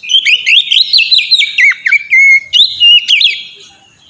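Oriental magpie-robin (kacer) singing a fast run of varied whistled and chattering phrases, ending with a few clear whistles, then falling silent near the end.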